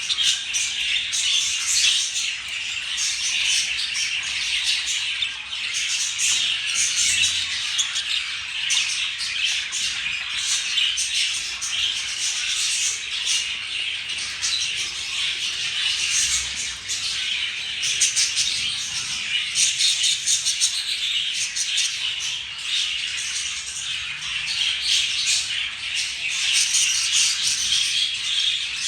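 Budgerigars chattering: a dense, unbroken stream of chirps, squawks and warbling.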